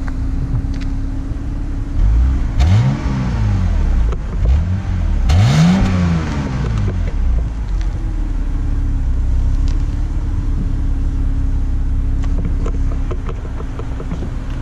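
2011 BMW 328i xDrive's 3.0-litre inline-six, heard at the exhaust tips, idling and revved twice: a shorter rev about two seconds in and a higher one about five seconds in, each falling back to a steady idle.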